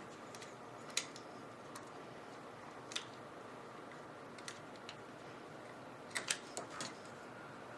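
Scattered light clicks and taps of small computer parts being handled during a PC build, single ones for the first five seconds and a quick cluster near the end, over a faint steady hiss.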